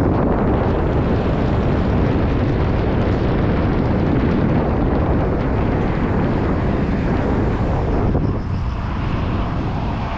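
Wind rushing over the microphone of a moving bicycle, a steady loud roar that eases a little about eight seconds in.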